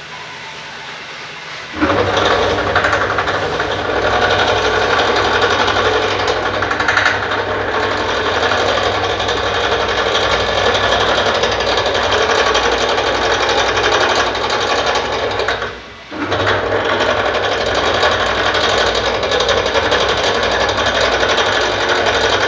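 A motor-driven machine running with a rapid, even clatter over a steady hum. It starts about two seconds in, stops briefly a little past the middle, and starts again.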